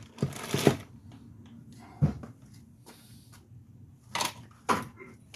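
Scattered clunks and knocks of hand tools on a car's front suspension, about five in all, the heaviest a dull thump about two seconds in, as a stubborn nut is worked loose.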